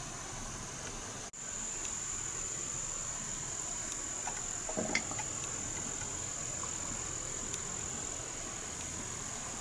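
Steady high-pitched insect trill, crickets or similar, over an even hiss of rain. It breaks off for an instant about a second in, and a short lower call with a click comes about five seconds in.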